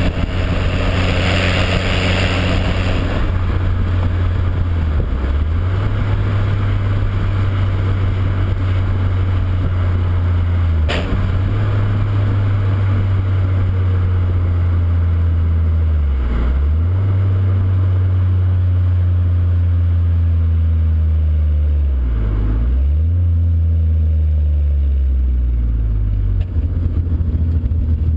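Alfa Romeo 166 3.0 V6 exhaust running at the tailpipe, recorded very close up, with a steady deep drone and an airy hiss. About four times the engine note briefly sags and comes back up, and there is one sharp click about eleven seconds in.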